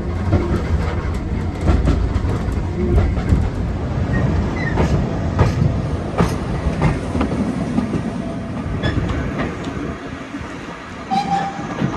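Railway coach running along the track, heard from on board: a steady low rumble with irregular clicks of the wheels over rail joints.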